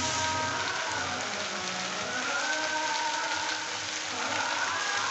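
Chopped okra, onion and tomato sizzling steadily in hot oil in a kadai.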